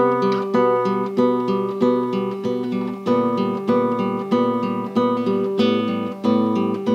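Criolla (nylon-string acoustic) guitar playing strummed chords in a steady rhythm, about two strokes a second.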